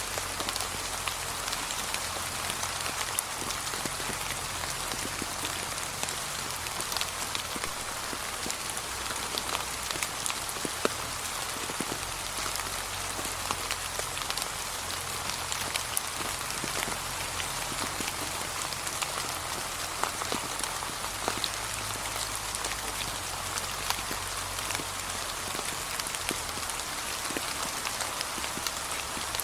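Gentle, steady rain falling on a path of fallen autumn leaves, with many separate drops ticking sharply over an even hiss.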